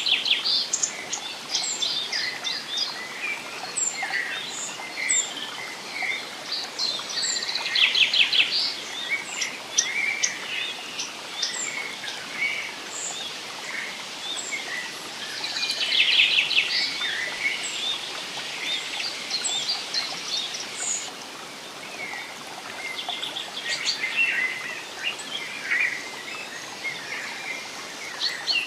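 Several birds singing and chirping in a forest over a steady hiss, with the loudest bursts of rapid trilled notes near the start and again about 8 and 16 seconds in.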